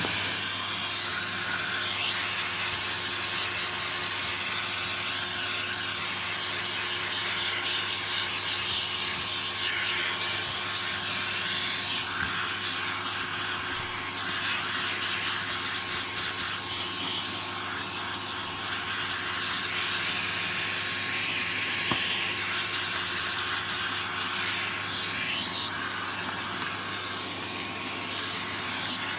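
Vacuum cleaner running steadily with a constant hum and a loud hiss, its nozzle sucking dust out of a robot vacuum's opened underside.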